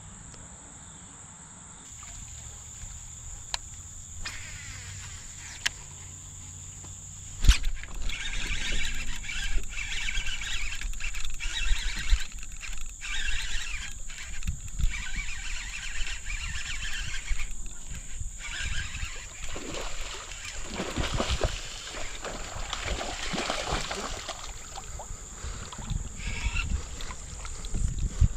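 Water splashing and sloshing around a moving kayak, with low wind rumble on the microphone. A sharp knock about seven seconds in, after which the splashing runs on unevenly.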